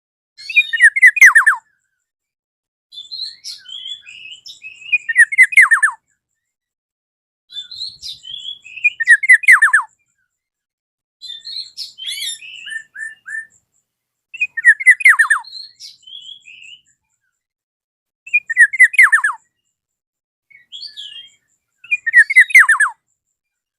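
Black-naped oriole singing in repeated phrases about every three to four seconds. Each loud phrase is a quick run of notes falling in pitch, with softer, higher notes in between.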